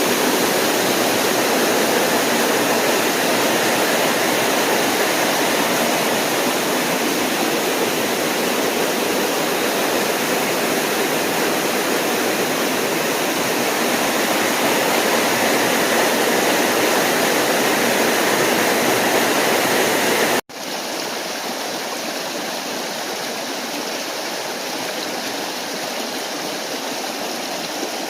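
Waterfall with water rushing and splashing steadily. About twenty seconds in it cuts off abruptly to a quieter, thinner rush of water.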